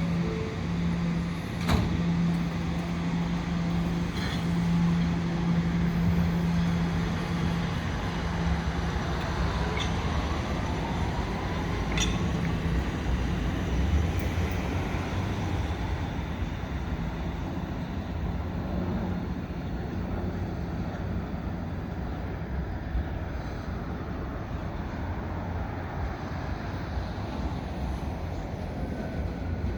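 Staten Island Railway electric subway train running at a station: a steady low hum for the first several seconds, a few sharp clicks, and a faint gliding whine about ten to thirteen seconds in.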